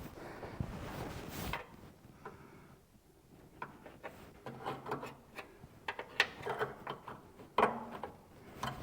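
Scattered light clicks and scrapes of a steel rust-repair patch panel being handled and test-fitted against the car body. A steady hiss stops about a second and a half in.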